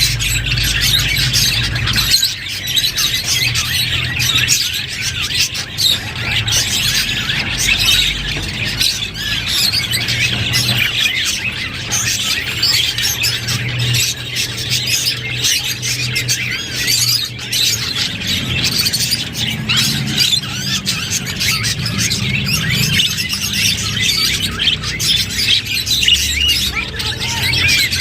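A flock of budgerigars chattering nonstop: a dense mix of rapid chirps, warbles and squawks, with a low hum underneath.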